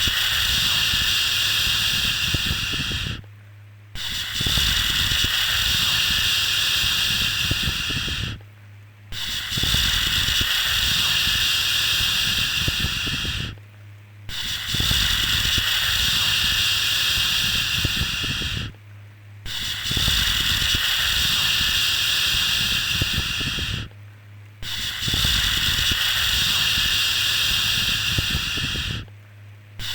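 Long drawn-out 'shhh' shushing sounds to calm a baby, each lasting about four and a half seconds and repeating with a brief break in between, six times over. A faint steady low hum runs underneath.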